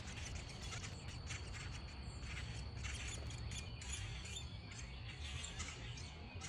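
Outdoor backyard ambience: many short, high chirps or ticks from small birds over a steady low rumble and a thin, steady high hum.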